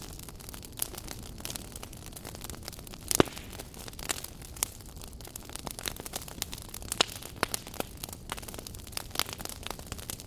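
Wood fire crackling in a fireplace: irregular sharp pops and snaps over a low steady hiss, with the loudest pop about three seconds in.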